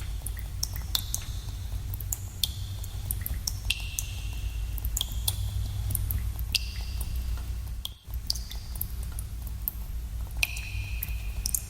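Water dripping in a cave: irregular sharp drips, several a second, some with a short high ringing tone, over a steady low rumble. The rumble drops out for a moment about two-thirds of the way through.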